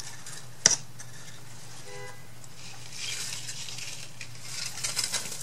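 Craft supplies being handled: one sharp click or tap a little under a second in, then rustling and light rattling of packaged materials in the second half, over a steady low hum.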